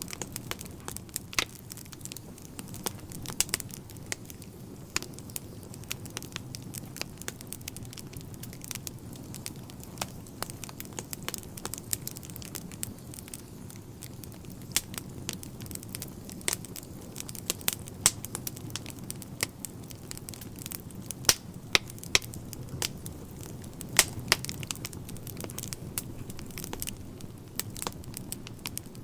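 Wood fire burning in a fireplace: a steady low rumble of the flames with frequent sharp crackles and pops from the burning logs, several a second.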